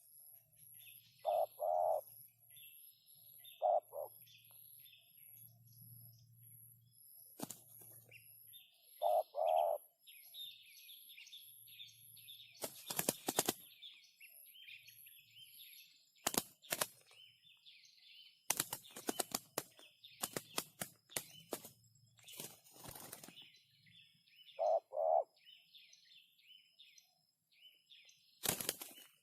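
Birds calling: short, low two-part notes now and then, over steady high chirping. Several sharp bursts of flapping or rustling break in, with a cluster of them in the middle.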